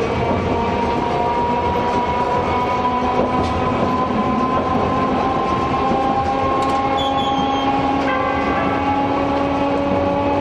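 Hiroshima Electric Railway 550-class streetcar running on nose-suspended (tsurikake) traction motors. The motor and gear whine is steady and climbs slowly in pitch as the car gains speed, over a continuous running rumble.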